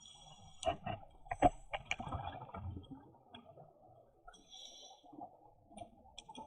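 Underwater sound on a scuba dive: a diver's regulator gives a brief high hiss at the start and again near the end, and exhaust bubbles gurgle in between. A few sharp clicks come in the first two seconds.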